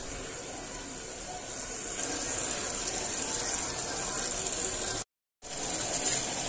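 Onion, tomato and spice masala frying in oil in a pan, a steady sizzle that grows a little louder about two seconds in. The sound cuts out completely for a moment about five seconds in.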